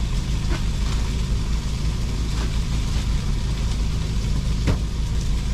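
Steady low rumble of a running engine, with a few light clicks over it, the sharpest near the end.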